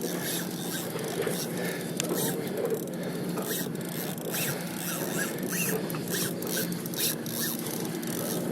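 Heavy fishing reel working under the load of a hooked bluefin tuna: irregular mechanical clicking and ticking, several a second, over a steady low hum.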